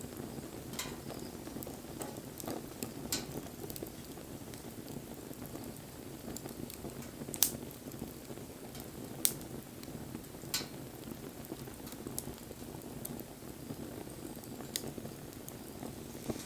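Wood campfire burning: a steady low rush with scattered sharp crackles and pops. The three loudest pops come a little past the middle, about a second and a half apart.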